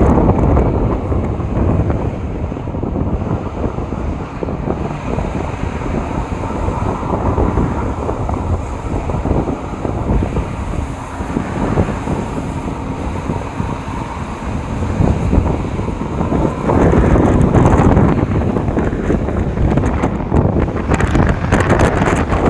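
Wind buffeting the microphone over the low, steady roar of jet airliner engines, growing louder about three-quarters of the way through.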